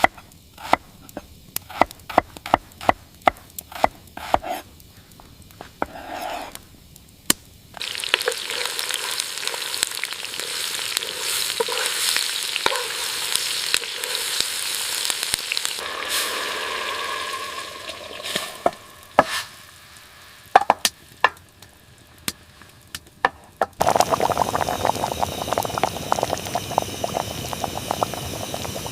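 Cooking sounds: sizzling in a pan or pot with stirring, broken up by sharp clicks and knocks of utensils. The clicks come first, a long stretch of sizzling starts about a quarter of the way in, and the sizzling comes back near the end after more knocks.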